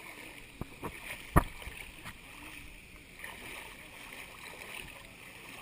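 Steady rush of a waterfall's falling water, fairly faint, with a few short sharp knocks in the first couple of seconds, the loudest about a second and a half in.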